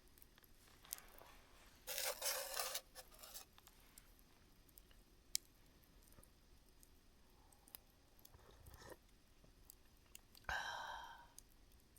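Wood fire burned down to embers, ticking and crackling faintly with scattered sharp pops. There are two brief hissing bursts, about two seconds in and near the end.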